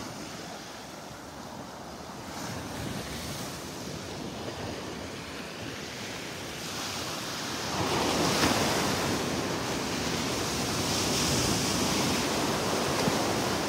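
Gulf of Mexico surf washing onto a sandy beach, with wind on the microphone; the wash swells louder about eight seconds in as a wave breaks.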